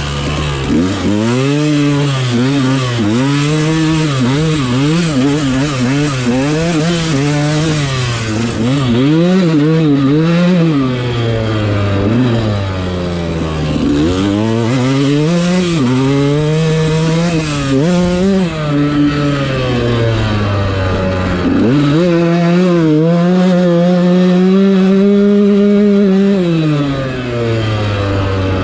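Dirt bike engine under way, revving up and down over and over with the throttle. Near the end it holds high for about four seconds, then eases off.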